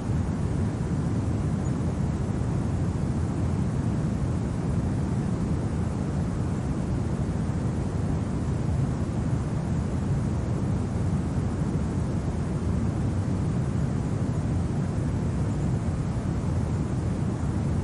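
Wind blowing steadily, a deep, even rush with no gusts or other events.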